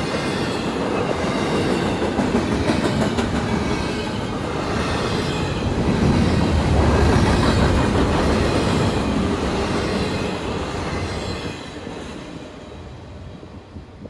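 Double-stack intermodal container cars of a freight train rolling past on steel wheels and rails. The sound is loudest about halfway through, then dies away near the end as the last car goes by.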